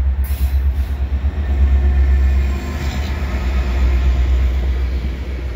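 A freight train passes close, led by a CN SD70M-2 diesel-electric locomotive with an EMD 16-cylinder two-stroke engine. Its engine gives a steady, deep rumble over the rolling noise of the rail cars.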